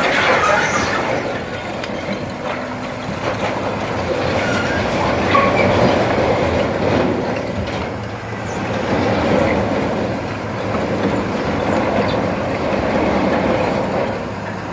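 Continuous mechanical rattling and clattering, loud and steady with many small clicks running through it.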